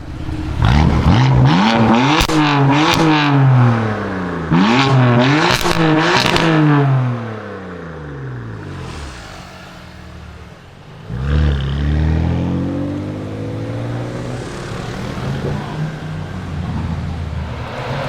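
BMW engine revving hard several times, its pitch climbing and falling back, then dropping to a lower, quieter run. A fresh burst of revs comes about eleven seconds in, after which it runs steadily.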